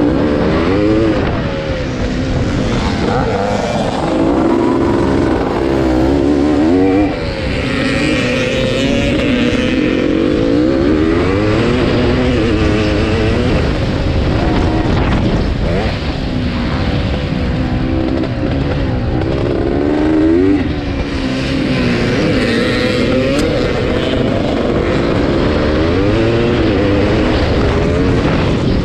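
Yamaha YZ465 two-stroke single-cylinder engine at race pace, revving up and down continuously as the rider works the throttle and gears, with two brief drops in engine level where the throttle is shut, about seven seconds in and again about twenty seconds in.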